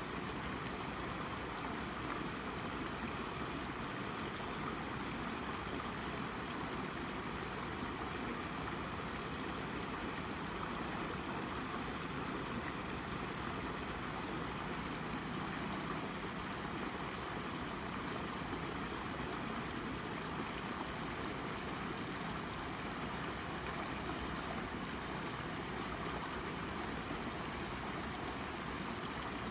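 Shallow brook babbling over a rock: a steady, even rush of running water with light trickling and gurgling.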